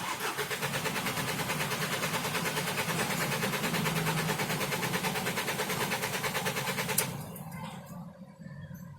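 Starter motor cranking the Volkswagen Vento TDI's four-cylinder diesel engine in rapid, even pulses for about seven seconds, then cutting off sharply. The engine does not fire: the fuel pressure regulator is unplugged for a rail-pressure-while-cranking test.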